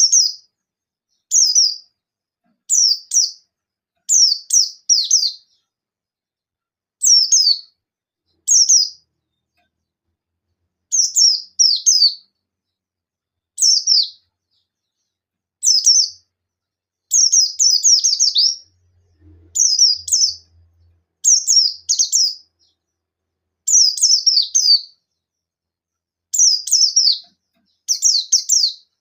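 Buxtoni white-eye (pleci) singing in short, rapid bursts of high, down-sliding notes, a burst every second or two with silent gaps between. This is the sharp 'shooting' song a white-eye uses to call out a rival.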